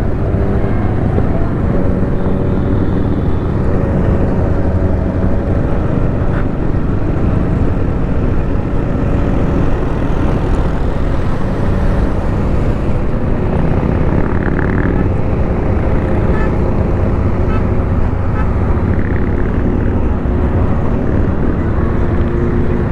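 Motorcycle engines running steadily at road speed under constant wind rush on the microphone, the engine tones rising and falling a little.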